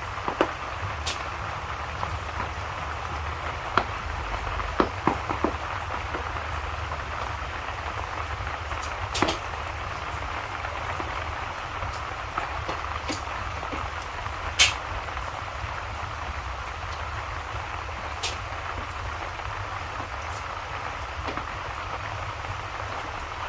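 Steady rain ambience over a low rumble, with a handful of sharp pops and crackles from a fireplace scattered through it, the loudest about two-thirds of the way in.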